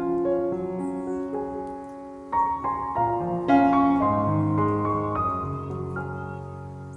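Soft background piano music: sustained chords and a slow melody, with fresh chords struck about a third and half of the way through.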